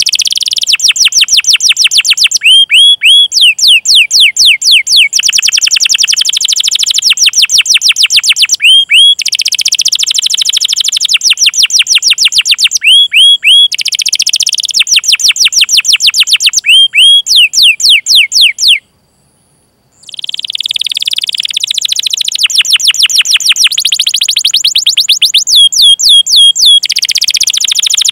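Domestic canary singing a long, loud song of rapid runs of quickly repeated sweeping chirps and rolling trills, broken once by a pause of about a second about two-thirds of the way through.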